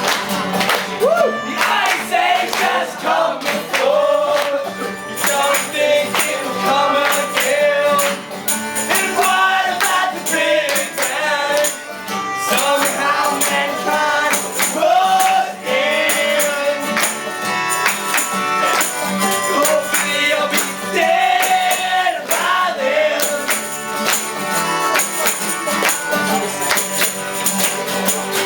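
Live band playing a song, with a voice singing over the instruments and a tambourine jingling along.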